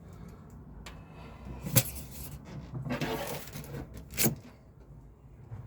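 Two sharp clicks about two and a half seconds apart, with a short scraping rustle between them, from a tape measure being handled against the van's cargo-bay panels between measurements.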